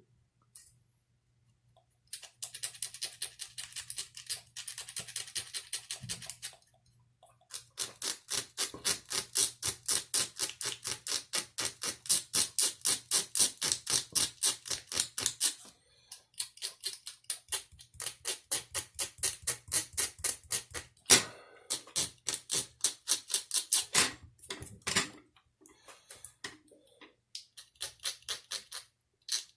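Knife blade scraping in quick repeated strokes, several a second, stripping the plastic insulation off the flat ribbon wire of a clock spring. The strokes come in runs with short pauses, after about two seconds of near silence.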